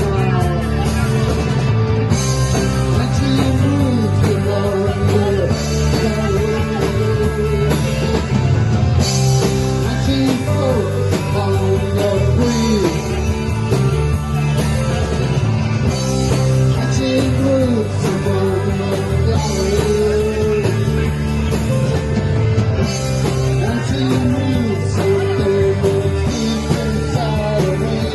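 Rock band playing live, instrumental: electric guitar lines that bend and glide over bass and drums.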